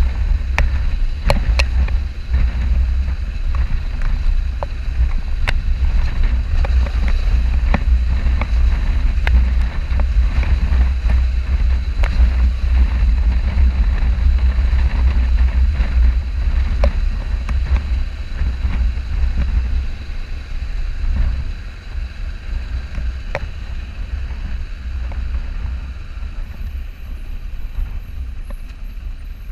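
Wind noise and road rumble on a helmet or action-camera microphone while riding a motorcycle, with occasional clicks. The heavy low rumble eases off about two-thirds of the way through.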